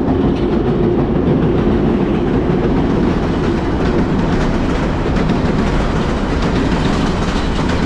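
A train passing over the railroad bridge: a loud, steady rumble of the train running on the rails.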